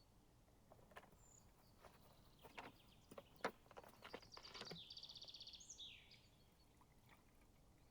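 Quiet forest ambience with a handful of sharp clicks and knocks in the first half, then a songbird's rapid high trill for about two seconds, ending in a downward slur.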